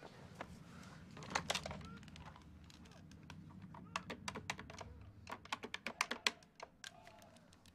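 A corded telephone being picked up and dialled: a few handling clicks about a second in, then its keypad buttons pressed in quick succession, a fast irregular run of sharp clicks from about four seconds in until near the end.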